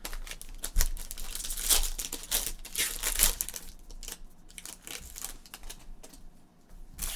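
Plastic trading card pack wrapper crinkling and tearing as it is opened and handled, in a run of irregular crackles and rustles.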